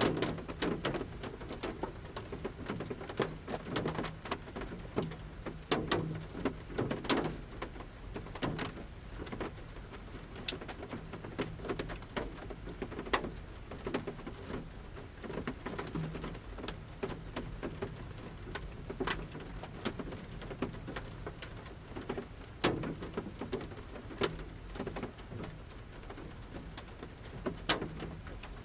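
Large raindrops falling from the forest canopy onto the roof of a camper van, heard from inside: sharp taps at irregular intervals over a soft steady rain patter.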